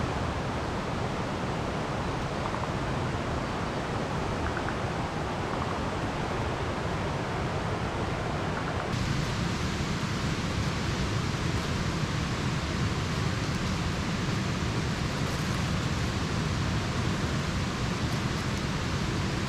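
Steady hiss of light rain falling outdoors. About halfway through it changes, becoming fuller and deeper in the low end.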